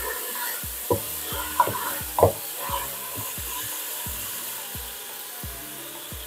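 Garlic-ginger paste sizzling in oil in a large metal pot while a wooden spatula stirs and scrapes it. The spatula knocks against the pot three times in the first couple of seconds, then the steady sizzle carries on.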